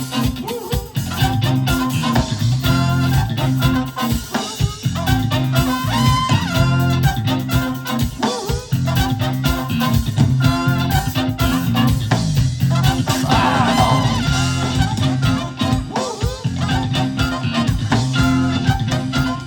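Live band playing an instrumental passage, with electric guitar, bass guitar and drums.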